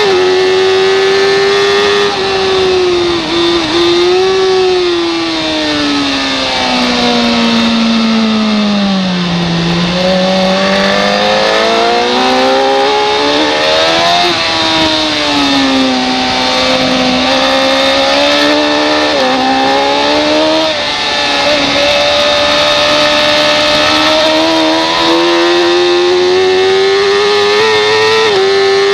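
Racing motorcycle engine running hard at high revs, its pitch falling for several seconds to a low point about a third of the way in as it slows, then rising again in stages with gear changes, and climbing steadily near the end as it accelerates.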